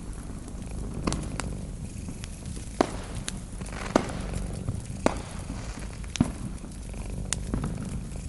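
Cat purring steadily, with a fireplace fire crackling over it: a sharp pop every second or so, about seven in all.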